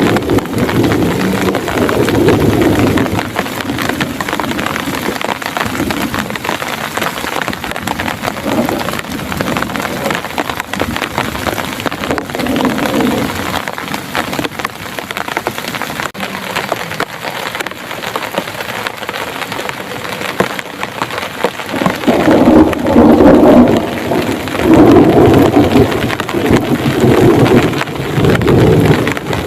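Heavy rain pouring steadily, with rolling thunder. The thunder rumbles swell near the start and are loudest and most sustained in the last third.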